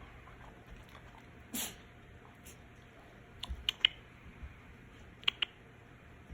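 Poodle puppies playing, heard as scattered sharp clicks and taps: a few around three and a half seconds in and another pair a little after five seconds, with a brief scuffling rustle at about a second and a half.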